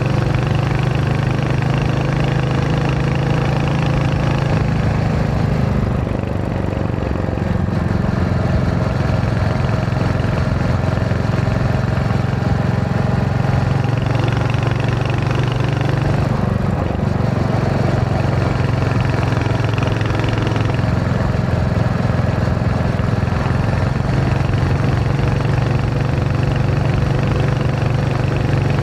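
Royal Enfield Hunter 350's single-cylinder engine and exhaust running steadily on the move, with a brief change in the engine note about six seconds in and again around sixteen seconds.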